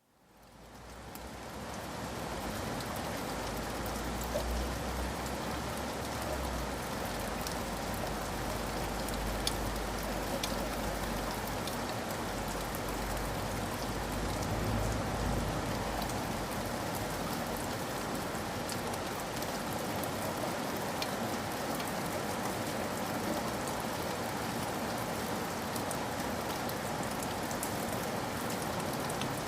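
Steady rain falling, an even patter with scattered sharper drop ticks, fading up from silence over the first couple of seconds.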